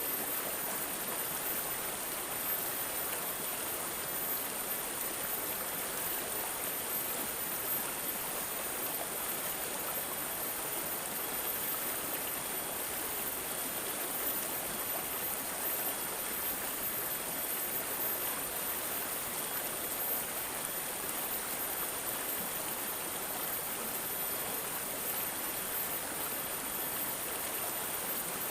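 Water flowing and gurgling steadily, like a small babbling stream.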